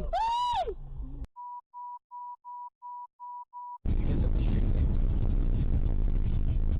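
A short, high cry that rises and falls, then seven short, evenly spaced electronic beeps of one steady tone, about three a second, with dead silence between them. About four seconds in, the steady low rumble of a moving car's road and engine noise starts abruptly.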